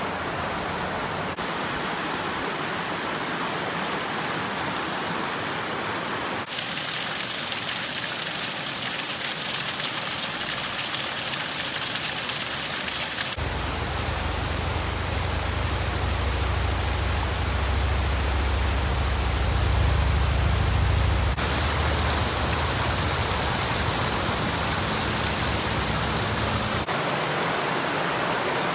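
Waterfall water rushing in a steady hiss. The sound changes abruptly several times, and a heavy low rumble comes in about a third of the way through and fades out again about two-thirds of the way.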